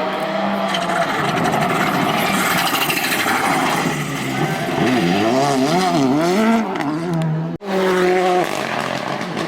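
Rally car's engine at full effort on a stage, its revs rising and falling quickly several times over tyre and road noise, breaking off abruptly about seven and a half seconds in before a steadier engine note.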